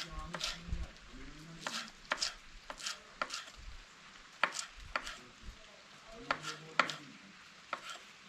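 Knife chopping on a cutting board: a dozen or so sharp, unevenly spaced knocks.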